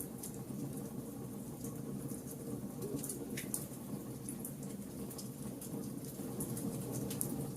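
Wood fire burning: a steady low rush of flame under irregular sharp crackles and pops from the burning wood.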